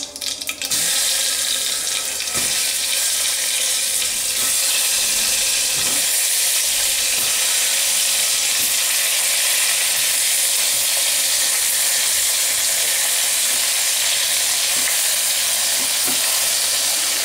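Hot oil tempered with cumin and mustard seeds sizzling steadily in an aluminium pressure cooker as stuffed baby brinjals are dropped in. The sizzle steps up about a second in, with a few soft knocks of brinjals against the pot.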